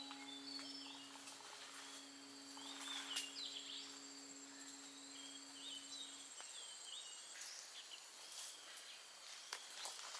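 Outdoor ambience: birds chirping in short repeated calls over a steady high insect buzz, with a low steady hum that stops about six seconds in.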